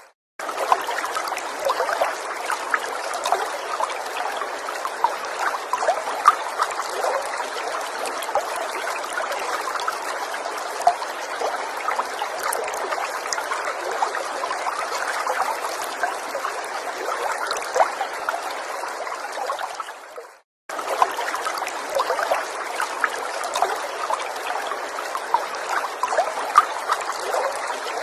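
Gentle forest stream flowing steadily, with many small splashes and plops on top of the running water. About twenty seconds in the sound fades and cuts out for a moment, then comes straight back.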